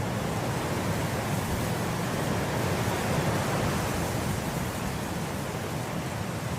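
Wind blowing through grass, a steady rushing that swells slightly in the middle and eases again near the end.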